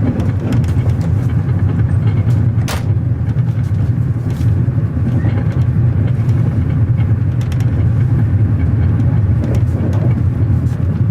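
Steady low rumble of a moving vehicle, with scattered short clicks and rattles over it.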